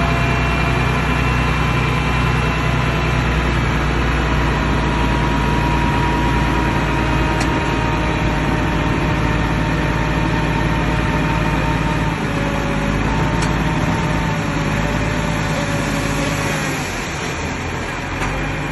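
Bulldozer's heavy diesel engine running steadily, easing off about seventeen seconds in.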